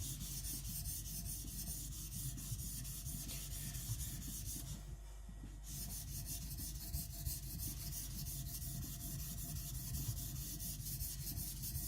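Kiridashi blade ground flat on a Naniwa Professional 400 whetstone: quick, even back-and-forth gritty strokes of steel on stone, with a pause of about a second midway.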